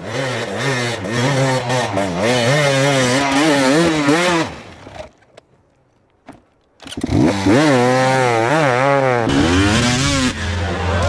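Dirt bike engine revving hard in repeated throttle blips, its pitch rising and falling again and again. It drops to near silence for about two seconds around the middle, then comes back revving and runs steadier near the end.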